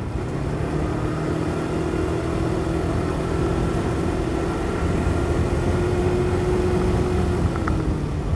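Motorcycle engine running steadily at road speed, picked up by a helmet-mounted microphone together with wind and road noise. The engine note eases down slightly near the end.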